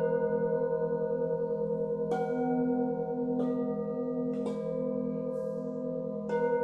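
Singing bowls struck one after another, four strikes, each adding a new ringing pitch over the tones still sounding. The overlapping tones ring on with a slow, regular wavering.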